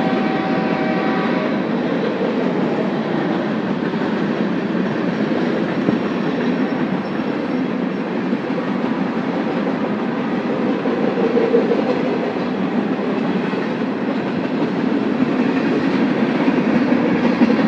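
A train passing, its wheels rumbling and clacking steadily over the rails. A horn sounds at the start and cuts off about a second in.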